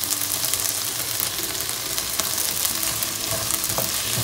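Diced capsicum and onion sizzling in a hot frying pan: a steady sizzle full of small crackles, while a wooden spoon stirs and turns the vegetables against the pan.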